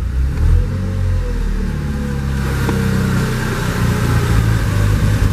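A Volkswagen 1.8 TSI (BZB) turbocharged four-cylinder petrol engine running steadily. It is heard first from inside the car and then from beside it, with more hiss from about two seconds in.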